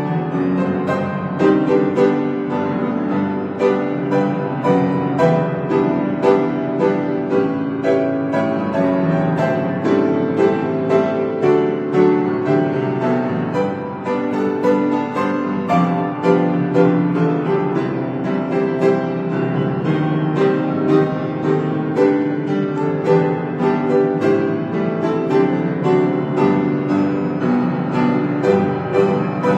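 Piano playing a hymn arrangement without singing: chords and melody notes struck at a steady pace.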